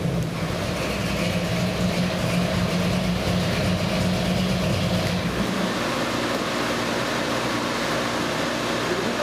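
383 cubic-inch stroker small-block Chevrolet V8 on an engine dyno, dropping back from a full-throttle pull and idling steadily at about 650 rpm.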